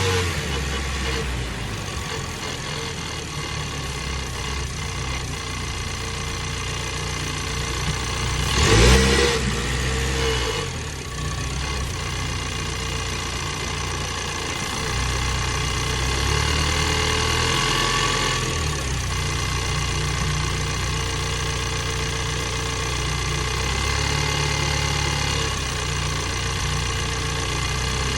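2022 Ford Bronco's 2.3-litre turbocharged four-cylinder engine running steadily at idle, with one short rise in engine sound about nine seconds in.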